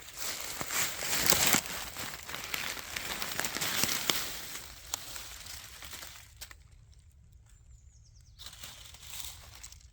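Footsteps crunching and rustling through dry leaf litter and undergrowth, loud for the first six seconds, then dying down, with another short burst of rustling near the end.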